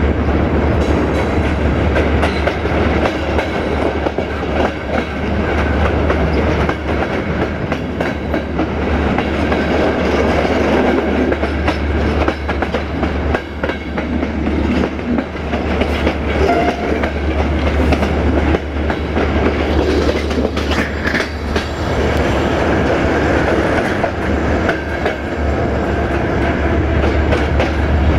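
Passenger train running along the track, heard from an open coach window: a steady rumble with the wheels clicking over the rail joints and a constant low hum underneath.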